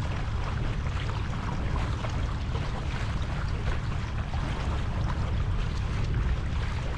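Wind buffeting the microphone in a steady low rumble, over water lapping and splashing against a kayak.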